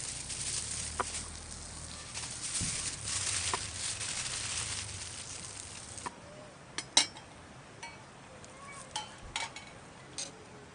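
Meat sizzling on a hot iron griddle. About six seconds in, the sizzle cuts off abruptly and a few sharp clicks and taps follow.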